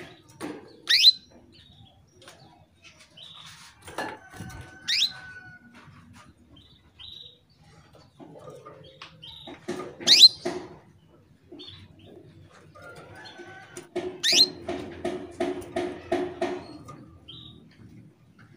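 Female canary in breeding condition, calling to a male: sharp, high call notes that sweep steeply down in pitch, four times with short chips between them, the loudest about ten seconds in. From about fourteen seconds in, a lower, rapid pulsed sound repeats about five times a second for a few seconds.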